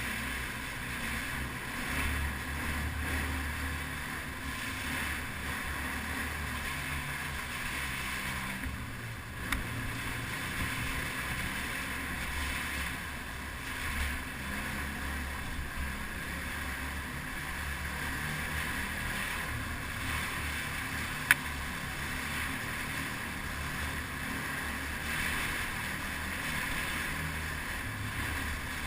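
Yamaha TTR250 trail bike's single-cylinder four-stroke engine running while riding, a steady low rumble that shifts with the throttle, under wind noise on the microphone. A single sharp click about two-thirds of the way through.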